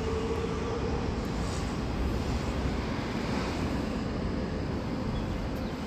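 Heavy vehicle engine running steadily with a low rumble, a faint whine in the first couple of seconds fading out.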